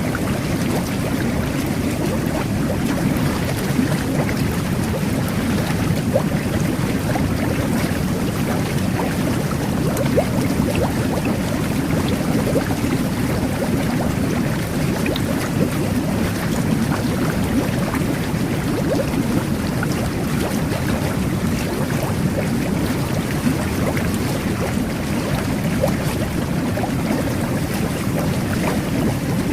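Jet bath churning steadily: bathwater bubbling and rumbling under the jets, with small bubbles popping at the surface.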